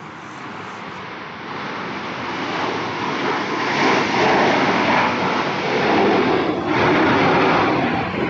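Aircraft flying past, its engine noise building over the first few seconds and then staying loud.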